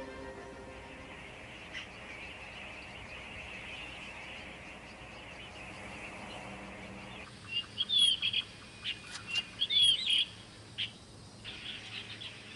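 Wild birds chirping: a run of short, sliding calls starting about seven seconds in, over a steady high background hiss.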